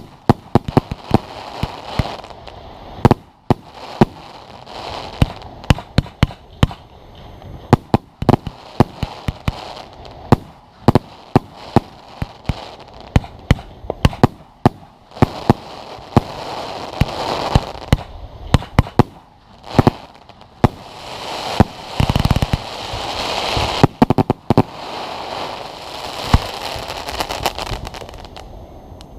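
Fireworks display: many sharp bangs of bursting shells at irregular intervals over a continuous crackling and hissing that swells and fades.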